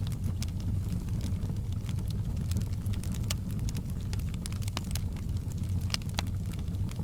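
Wood fire crackling: frequent sharp pops and snaps, irregularly spaced, over a steady low rumble.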